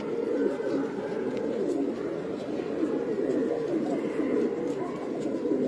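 Many domestic pigeons cooing at once, their low calls overlapping into a continuous chorus.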